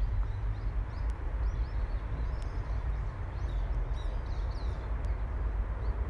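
Small birds giving a run of short chirps in the middle, over a steady low rumble of wind or distant traffic.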